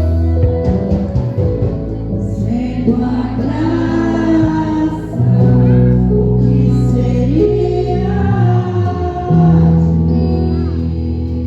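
Gospel worship music: a singing voice carrying a slow melody over long held instrumental chords.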